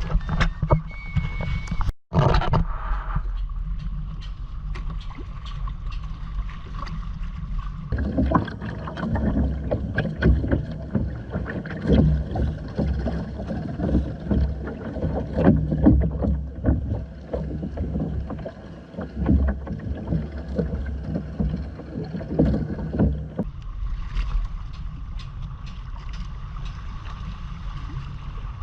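Water splashing and slapping against the hull of a Hobie Island sailing kayak under way, over a steady low rumble of wind on the microphone. The splashing becomes busier for about fifteen seconds from about eight seconds in, after a short dropout near the start.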